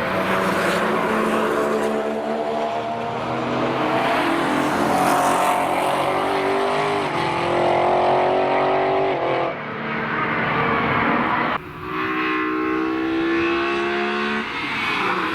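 BMW E46 M3 engine at full throttle on a race track, its pitch climbing through the revs. It cuts off sharply for a shift about nine and a half and eleven and a half seconds in, then climbs again.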